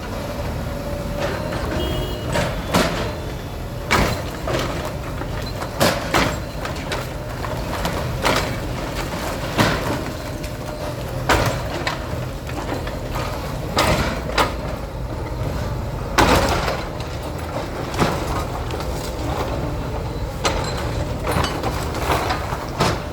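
A heavy earthmover's diesel engine running steadily, with sharp clanks and knocks every second or two as it breaks up structures in a demolition.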